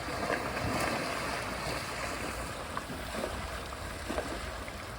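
Water splashing and sloshing over a steady low rumble, busiest in the first couple of seconds.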